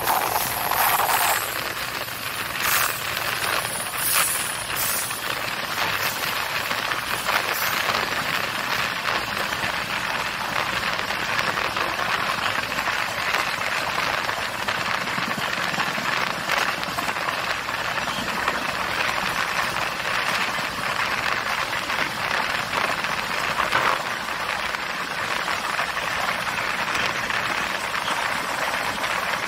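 Steady running noise heard from inside an Indian Railways passenger coach of a moving express train: wheels on the rails with rattling and hiss, and a few sharp clicks in the first several seconds.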